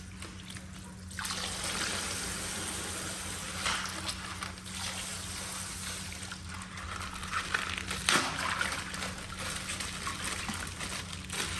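Colored water trickling and pouring out of a punctured plastic ice-pack bag, starting about a second in, with a couple of sharp clicks along the way.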